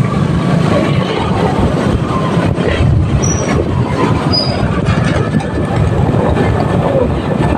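Motorcycle under way: its engine running with a steady mix of engine and road noise.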